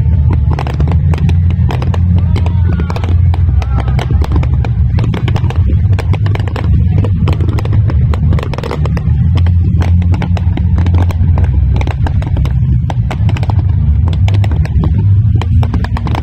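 Aerial fireworks going off in rapid succession: many sharp bangs and crackles over a continuous low rumble.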